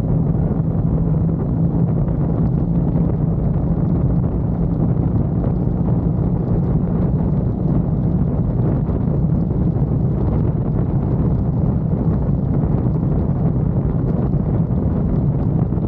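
Triumph Bonneville's parallel-twin engine running steadily at cruising speed, with wind buffeting the microphone.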